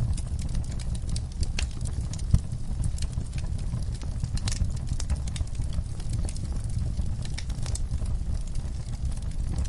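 Wood fire burning in a fireplace: a steady low rumble of flames with a constant scatter of small crackles and pops, and one louder pop about two and a half seconds in.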